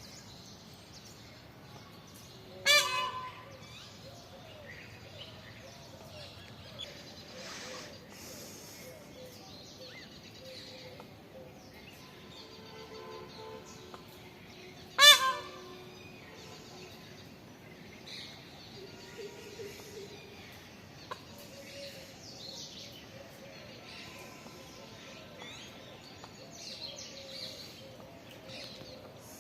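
A bird giving two loud, brief, harsh honking calls about twelve seconds apart, with faint chirping of other birds in the background.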